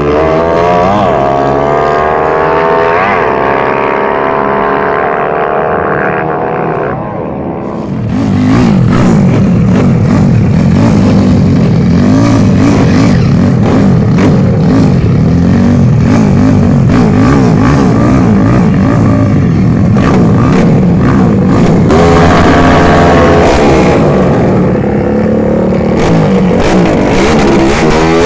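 Motorcycle drag-racing engines at full throttle, rising in pitch and dropping back as they shift gears. About eight seconds in the sound turns into a dense, rough noise. Rising engine pitches return near the end.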